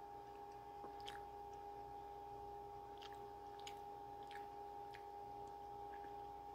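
Faint chewing of a mouthful of pepperoni pizza, with a few short wet mouth clicks spread about a second apart, over a steady hum.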